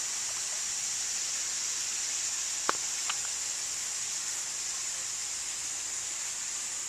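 Steady high-pitched hiss, with two short sharp clicks a little under half a second apart near the middle.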